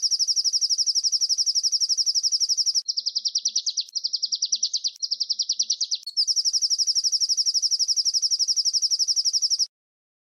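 Small songbird's rapid, high-pitched rolling trill of about ten notes a second. About 3 s in it changes to a slightly lower, wavering trill in short phrases, then the fast trill returns about 6 s in and stops shortly before the end.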